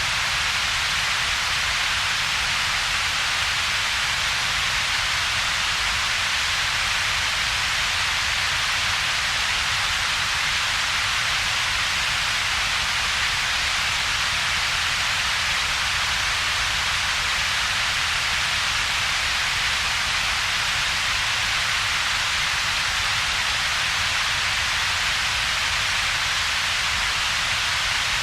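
Steady synthetic double-peaked noise: an even hiss centred around 2 to 4 kHz over a separate low rumble below about 150 Hz, with a hollow in between. It is unchanging, with no rhythm or events.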